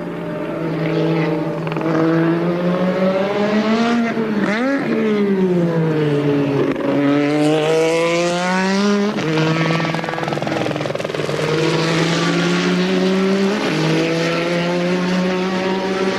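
1983 Formula One racing car engine at high revs, its pitch rising and falling. The note climbs and drops quickly about four and a half seconds in, falls for a long stretch around six to seven seconds, then holds steadier.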